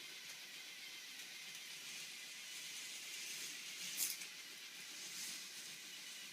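Model roller coaster running: a faint, steady whir from its small lift motor, with a sharp click about four seconds in as the track or cars knock.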